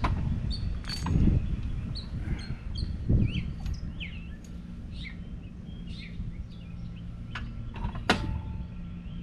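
Small birds chirping over and over in short, quick calls, with a few sharp metallic clicks and dull knocks from parts of a hydraulic tilt link being fitted to a tractor's hitch. The loudest knocks come about a second in and about three seconds in, and a sharp click comes near the end.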